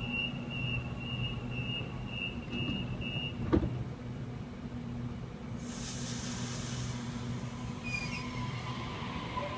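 Suburban electric train at a station platform over a steady low hum. A run of rapid high beeps stops about three seconds in, followed by a sharp click. A burst of air hiss comes a couple of seconds later, then a steady whine that grows near the end.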